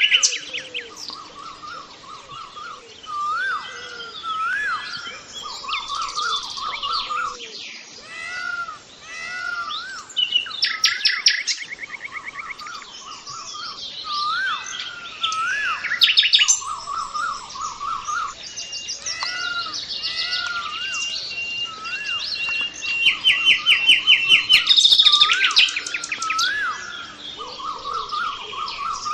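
Several birds chirping and singing at once, with quick rattling trills, high twitters and a repeated rising-and-falling whistled note.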